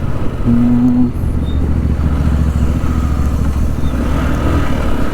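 Motorcycle engine running steadily while the bike is ridden along the road. A brief steady low tone sounds about half a second in and lasts about half a second.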